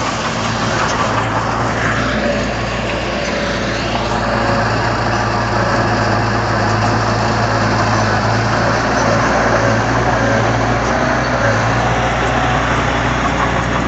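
Komatsu D31 bulldozer's diesel engine running steadily, somewhat louder from about four seconds in.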